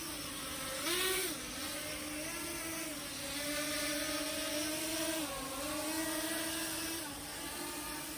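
7-inch FPV quadcopter's brushless motors and propellers whining under throttle. There is a short, louder blip about a second in, then the pitch wanders up and down with the throttle.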